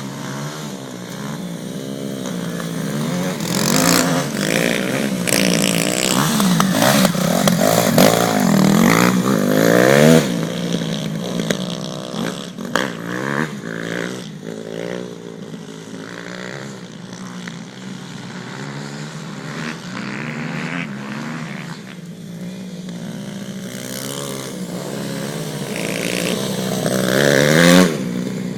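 2004 Kawasaki KX250F's four-stroke single-cylinder engine being ridden, its pitch rising and falling as it revs and shifts. It grows louder to a peak about ten seconds in, then again near the end.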